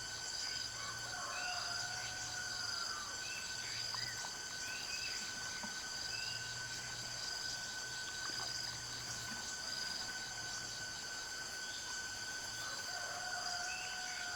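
Steady chorus of insects trilling in high, pulsing tones, with short bird chirps scattered through it.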